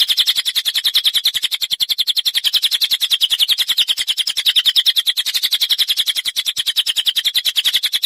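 A small songbird's rapid, even trill of high chattering notes, about eleven a second, running on without a break.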